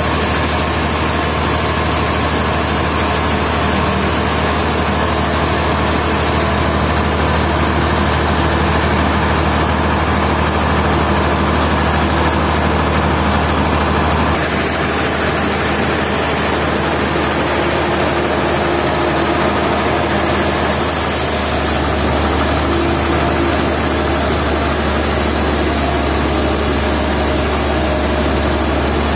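Sawmill machinery running steadily, with a strong low hum under a loud even noise; its sound shifts about halfway through and again a few seconds later.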